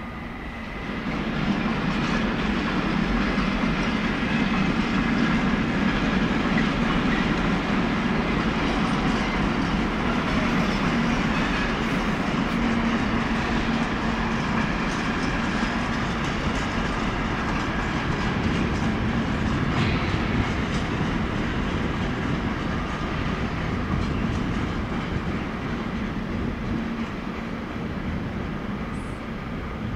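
A regional train running close by: a steady, loud rolling noise that rises about a second in and eases a little near the end.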